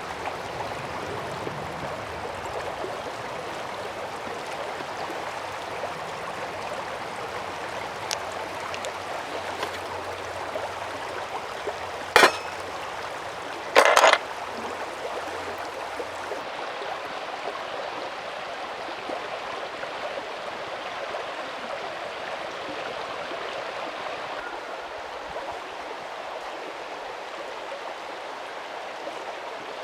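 A mountain stream flowing steadily. Two sharp knocks cut through it, about twelve seconds in and again about a second and a half later.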